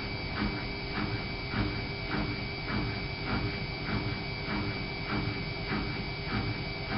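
Whirlpool AWO 5346 front-loading washing machine running, its drum turning with a soft swish or thud repeating about every 0.6 seconds over a steady motor whine.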